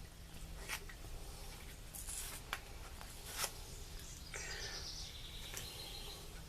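A few light clicks and a short scrape a little past the middle, from a quart bottle of gear oil and a small hand fluid pump being handled.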